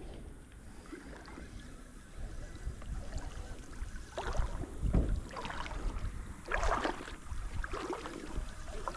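Creek water sloshing and splashing in irregular swishes, heavier in the second half, with a low wind rumble on the microphone.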